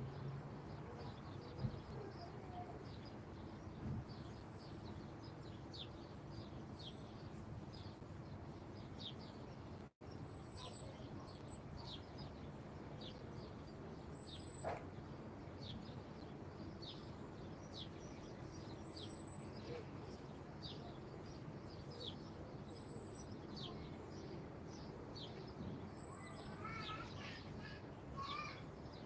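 Garden songbirds chirping: a stream of short, quick falling chirps, with a thin high note repeating every few seconds and a different, lower call near the end. A faint steady low rumble runs underneath.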